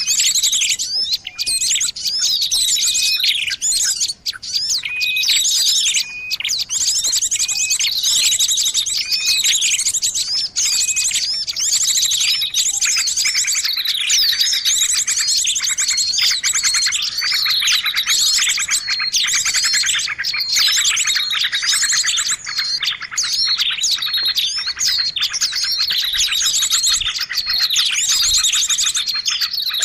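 A dense, unbroken chorus of many small songbirds chirping and trilling over one another, all high-pitched: a bird-lure recording that layers the calls of several small species. For the first several seconds a short whistled note repeats about once a second beneath the chatter.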